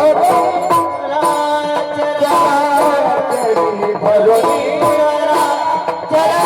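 Marathi kirtan devotional music: a voice singing the tune over drum and percussion accompaniment.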